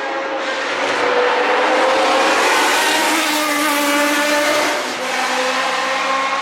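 A historic Formula One car's engine at high revs as the car passes at speed, loudest through the middle. About five seconds in the note breaks and drops, then runs on at a lower pitch.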